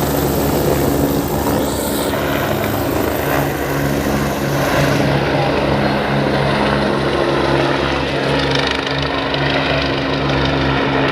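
Helicopter running close by: steady rotor and engine hum over a loud rushing noise.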